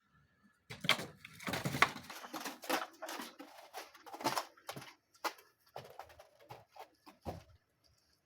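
Kittens playing and scuffling: a run of irregular knocks, rustles and light patter, busiest in the first half, with a last thump near the end.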